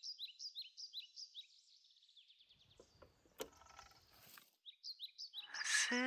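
Faint bird chirping: a run of short, high chirps about four a second. About three seconds in comes a brief rustle with a sharp click as the handset of a rotary telephone is lifted from its cradle. The chirping returns and a rising whoosh swells near the end.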